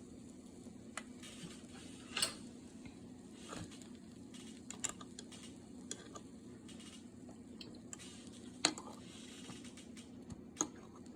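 Scattered light clicks and knocks of kitchen utensils and containers being handled, the sharpest about two seconds in and near the end, over a steady low hum.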